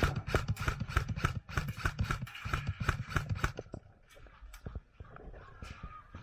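Quick irregular footsteps and scuffing of clothing and gear on the move, dense and loud for the first three and a half seconds, then thinning to scattered scrapes and clicks.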